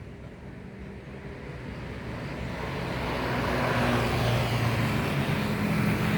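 A passing motor vehicle: a low engine hum with road noise that grows louder over a couple of seconds from about a third of the way in, then holds steady.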